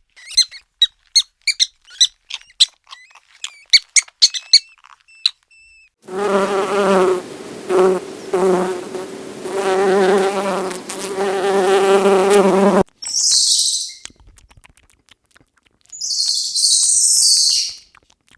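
Rapid sharp high chirps for the first few seconds, then an insect buzzing steadily for about seven seconds, breaking off briefly a few times. Near the end come two short bursts of high hiss.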